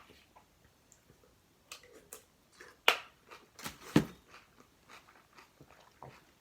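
A person chewing and biting a taco close to the microphone: wet mouth clicks, with two loud crunchy bites about three and four seconds in.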